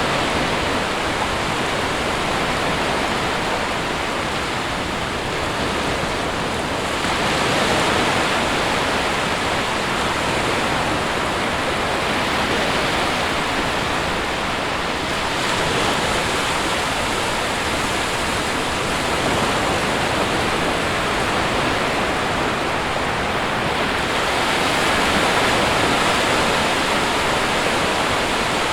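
Sea surf washing continuously onto a shore as a dense, steady rush, swelling a little with incoming waves about every eight seconds.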